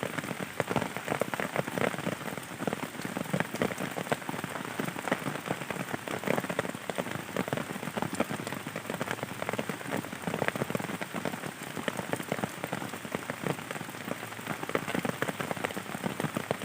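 Steady rain falling, a dense stream of separate drop hits that keeps on without a break.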